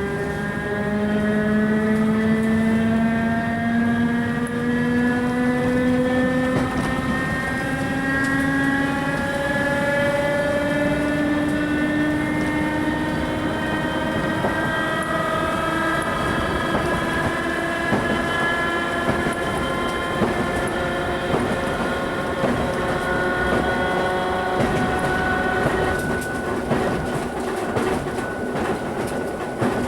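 Worn English Electric traction motors of a 2EPB electric multiple unit whining under power. The whine rises slowly in pitch as the train gathers speed. Near the end the whine fades and the wheels click over the rail joints.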